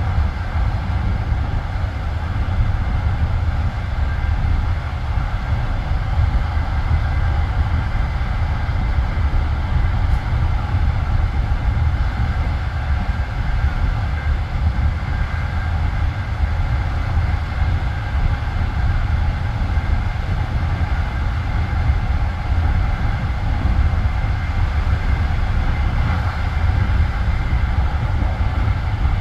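Passenger railway coach running along the track: a steady rumble of wheels on rails, heard from inside the coach.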